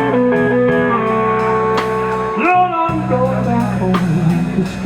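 Band playing a slow blues: an electric guitar lead with long held notes and a bent note about halfway through, over a steady low backing, with cymbal or drum hits.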